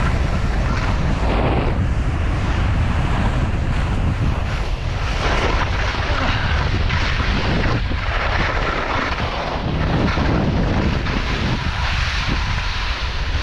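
Wind buffeting the microphone as a skier descends, over the hiss and scrape of skis on crusty, heavy snow, swelling and fading with each turn.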